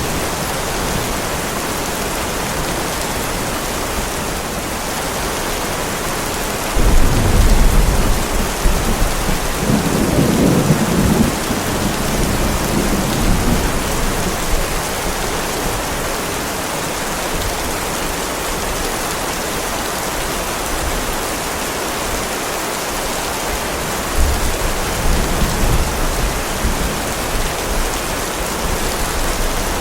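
Steady heavy rain with a thunderstorm: a sudden deep thunder rumble about seven seconds in rolls on for several seconds, and a weaker rumble comes near the end.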